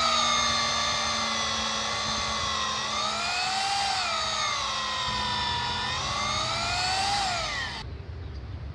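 Electric drill running at high speed, its whine dipping and rising in pitch as it bores holes into logs for mushroom plug inoculation. Near the end the pitch falls and the motor stops.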